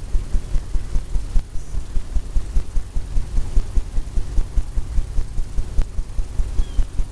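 Rapid, regular low thumps, several a second, of a paintbrush tapping and dabbing against a canvas on an easel to stipple in sandy texture.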